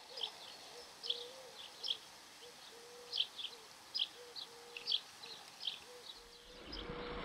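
Small birds chirping: short, high, repeated notes, often in pairs, about one to two a second, over a faint steady hum.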